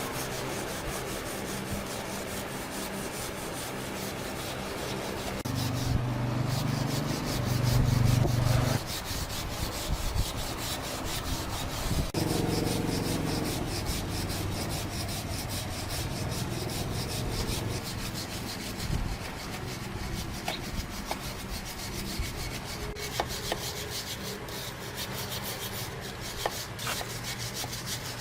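Sanding: a steady scratchy rubbing on a surface, with a low hum that swells louder about six to nine seconds in and again around thirteen seconds.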